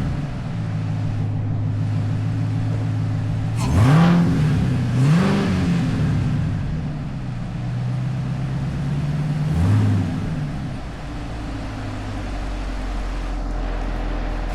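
Cadillac CT5-V Blackwing's supercharged V8 through a Corsa Xtreme valved cat-back exhaust, idling deep and blipped: two quick revs about four and five seconds in, and a shorter one near ten seconds.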